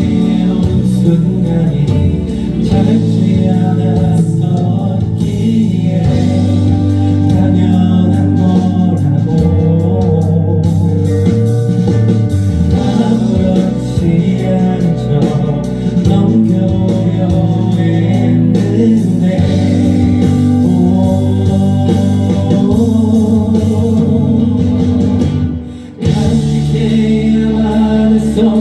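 A band playing a song: guitars and bass with a sung vocal. The music drops away for a moment near the end, then comes back in.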